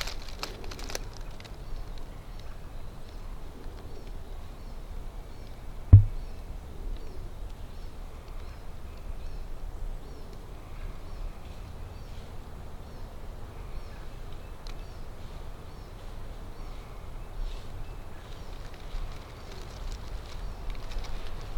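Quiet woodland ambience: a steady low rumble with faint, distant birdsong. One short, dull, low thump about six seconds in.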